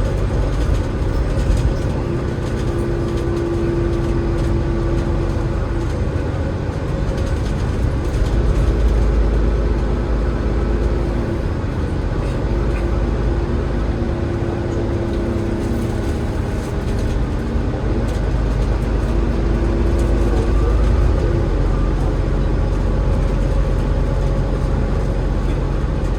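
Alexander Dennis Enviro500 MMC double-decker bus running with its Cummins ISL8.9 diesel engine and ZF EcoLife automatic gearbox: a steady low rumble. A steady-pitched whine comes and goes several times over it, each lasting a few seconds.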